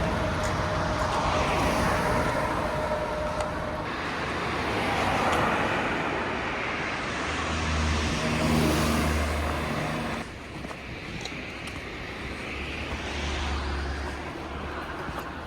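Vehicle running noise: a steady rushing with a low hum, changing abruptly about four seconds in and again about ten seconds in.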